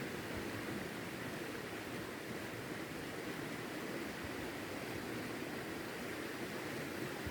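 Steady rushing of river water, an even wash of noise without breaks.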